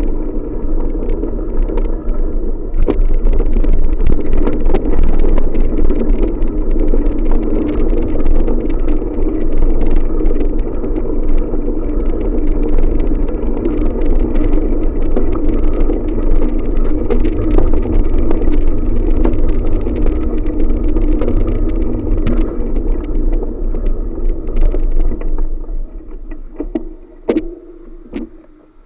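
Steady ride noise from a bicycle on the move: wind buffeting the microphone and tyres on the road, with many small knocks and rattles. It dies away over the last few seconds.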